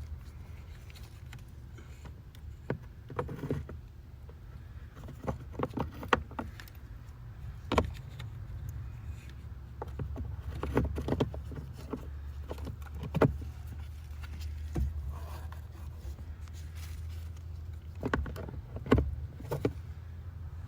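Scattered clicks, taps and light rattles of a blower motor resistor being handled and fitted back into the truck's heater housing, over a steady low hum.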